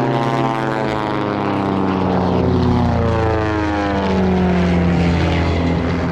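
Engine and propeller drone of Van's RV-8 aerobatic planes flying past. It is a loud, steady note whose pitch slides down as they pass, with a second, crossing note from another plane.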